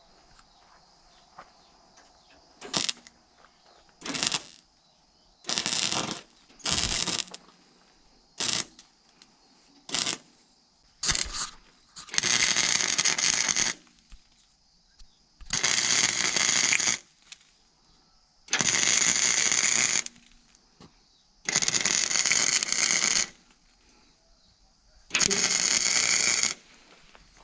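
Welding a steel patch panel into a truck fender: a run of short tack welds, then five longer welds of about one and a half to two seconds each. Each is a crackling burst of the arc that starts and cuts off suddenly.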